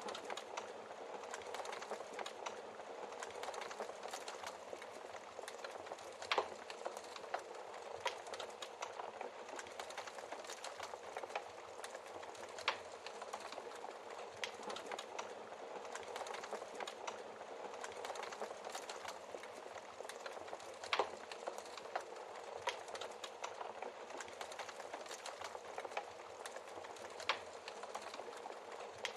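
Wood fire crackling steadily, with a few louder pops of the burning logs scattered through.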